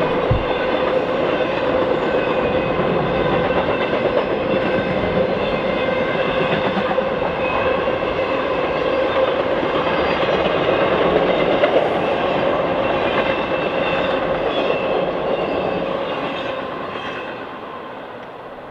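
Railroad cars rolling past: a steady din of wheels on rail with a level ringing tone running through it. It fades away over the last few seconds as the train moves off.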